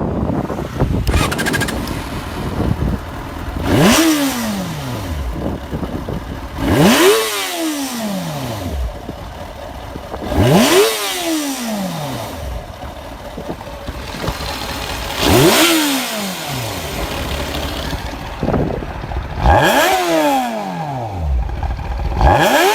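2009 Yamaha FZ6N's four-cylinder engine being revved in short blips, about six times. Each time the pitch shoots up and falls back to a steady idle.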